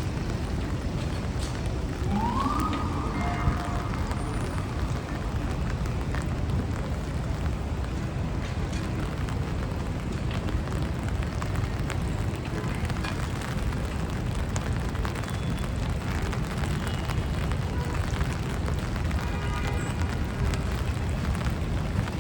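City street ambience in the rain: a steady hiss of rain and wet traffic over a low rumble of passing vehicles. About two seconds in, a short rising tone cuts through and then holds briefly.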